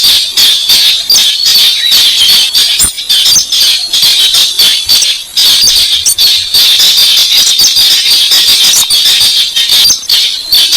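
Lure recording of a buff-banded rail (weris): an unbroken, loud run of sharp, squeaky calls repeated several times a second.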